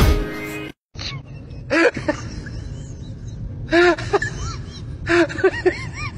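Music that cuts off suddenly less than a second in, then a pug's excited whining yelps: short calls that rise and fall in pitch, coming in three or four quick groups.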